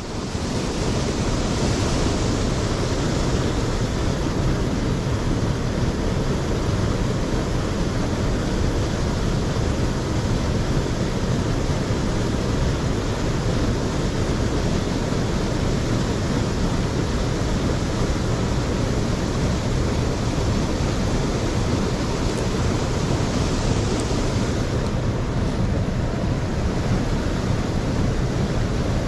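Rushing water of a mountain stream, a steady unbroken noise.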